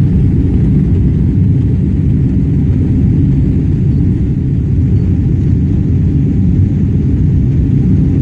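Boeing 777-300ER cabin noise during takeoff: the steady, loud, low rumble of the GE90 engines and airflow heard from a window seat inside the cabin.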